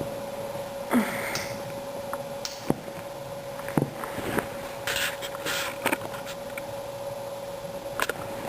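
Scattered light knocks and short scratchy rustles over a steady faint electrical hum.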